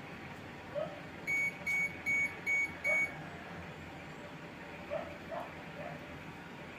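Five short electronic beeps in quick succession, about two and a half a second, one clear high tone each, over a steady background hiss; faint short chirps come and go.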